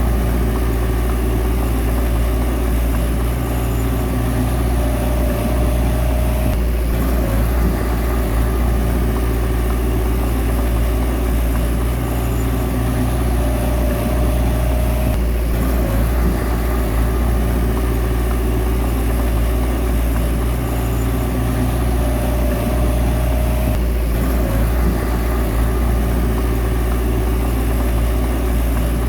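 Bulldozer diesel engine running steadily under load, with a higher whine that rises out of it three times for a couple of seconds each.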